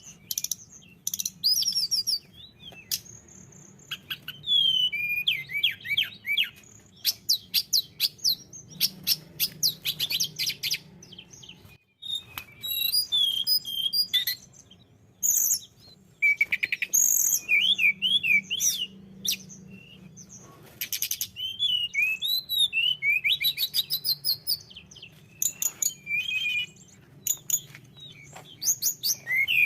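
A tledekan gunung singing vigorously: fast, varied phrases of sharp chirps, trills and quick sweeping whistles, broken by short pauses and one brief silence about twelve seconds in.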